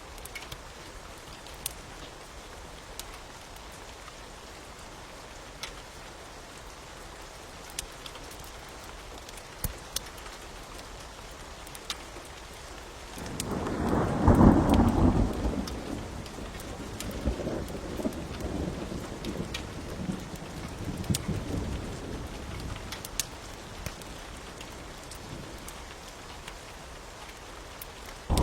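Steady rain with scattered sharp crackles of a wood fire. About thirteen seconds in, a thunderclap rumbles in, peaks, and rolls away in weaker waves over several seconds.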